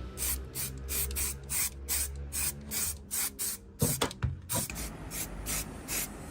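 Quick, evenly repeated hissing strokes, about four a second, with a short break about four seconds in.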